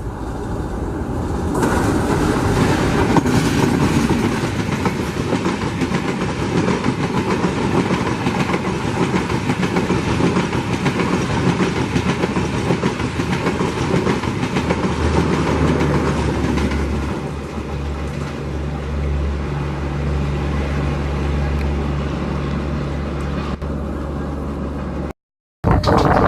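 Indian Railways passenger train passing at speed, wheels clattering over the rail joints; after the middle the rush eases and a steady low hum takes over, and the sound cuts off abruptly near the end.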